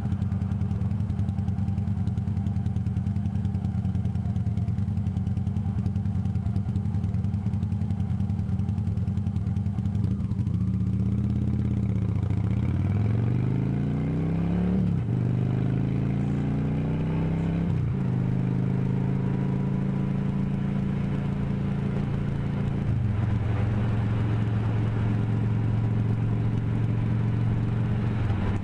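Motorcycle engine running steadily, then accelerating, its pitch climbing and dropping at two gear changes, before settling into a steady cruise.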